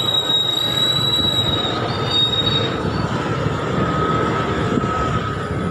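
Rumbling, rattling noise of a moving vehicle, with steady high-pitched squeals over it; the highest squeal fades out about two and a half seconds in.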